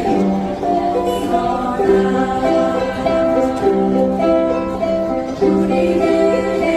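Ukulele ensemble strumming a song while the group sings the melody in long held notes.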